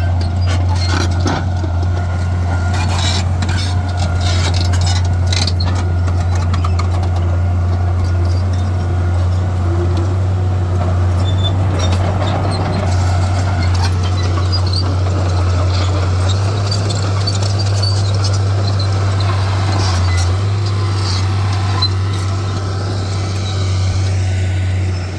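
Heavy diesel earthmoving machinery running with a steady low engine drone, with a few knocks and clanks in the first several seconds.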